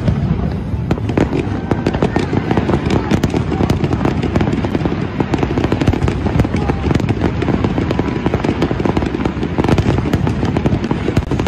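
Fireworks going off in a dense, rapid barrage: overlapping low booms and crackles from many shells bursting at once, without a break.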